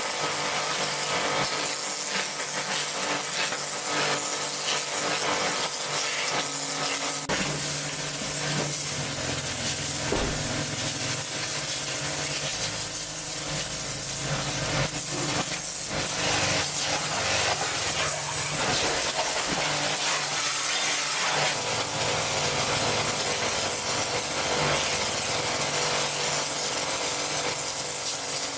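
Continuous rasping and scraping of hand or power tool work, over a steady hum.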